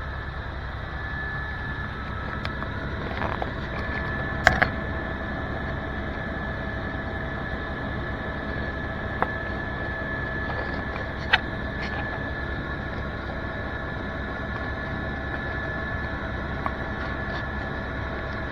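Helicopter cabin noise in flight: a steady engine and rotor drone with a constant whine. A few sharp clicks cut through it, the loudest a quick pair about four and a half seconds in and single ones near nine and eleven seconds.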